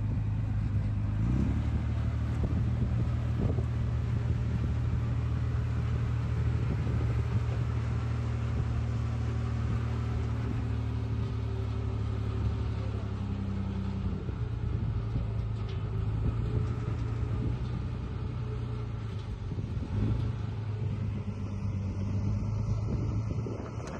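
Diesel engine of heavy earthmoving equipment running steadily with a low rumble, revving up briefly about a second in.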